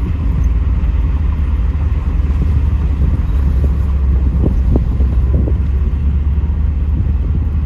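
Pontiac Trans Am V8 engine and road noise while driving, a steady low rumble.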